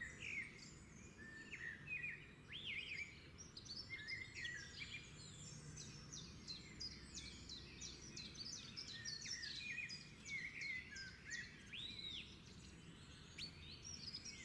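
Several wild birds chirping and calling at once, a busy mix of short high notes and quick sweeps over a faint low background noise.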